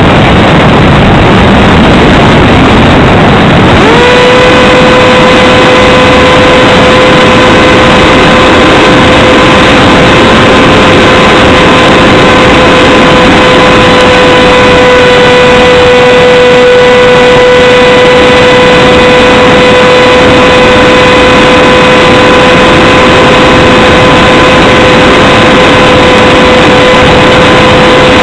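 Heavy wind rush on the onboard microphone of a Radjet 800 RC flying wing. About four seconds in, the electric pusher motor's whine comes up quickly and then holds a steady pitch.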